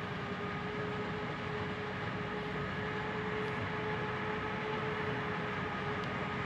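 Heavy machinery running steadily during a corn silage harvest: a constant engine drone with a steady whine over it.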